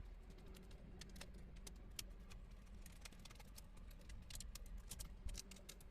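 Faint, irregular small clicks and ticks of a screwdriver and screws being worked in an iMac G3's chassis, over a low steady hum.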